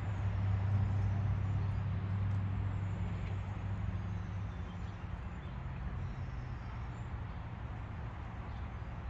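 A motor vehicle's engine running: a steady low hum that eases off after about five seconds.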